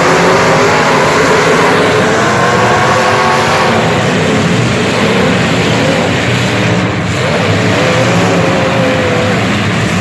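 Motor vehicle engines running loudly, their pitch rising and falling as they rev.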